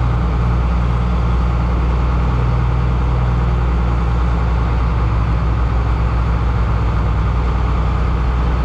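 Heavy engine running at a steady speed, its low hum holding even throughout.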